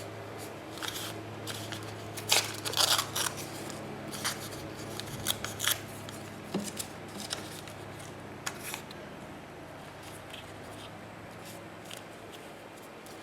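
Scissors snipping paper in several short runs of crisp cuts, the loudest about two to three seconds in, with paper being handled in between.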